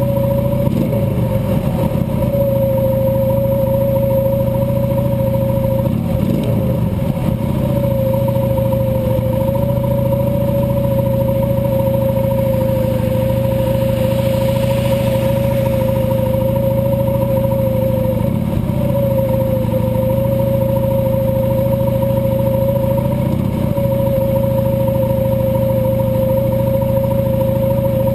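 Cruiser motorcycle engine running steadily under way, its pitch shifting briefly a few times.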